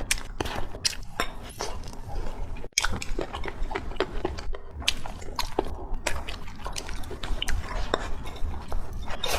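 Close-up eating sounds: wet chewing and smacking of braised chicken and fried rice, with cutlery clinking against a dish now and then in many short, irregular clicks.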